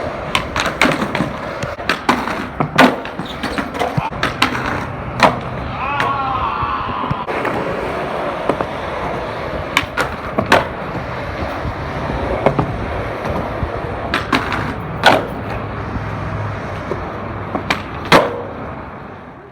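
Skateboard wheels rolling steadily, with repeated sharp clacks of the board popping, landing and striking obstacles as tricks are done.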